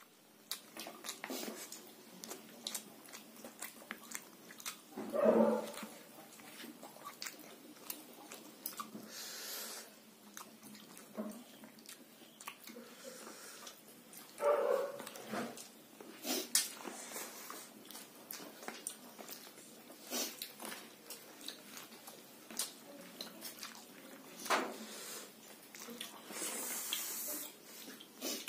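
Close-up eating sounds: a man chewing and smacking his lips over a mouthful of rice and boiled pork eaten by hand, with many small wet clicks. Two louder mouth sounds come about five and fourteen seconds in.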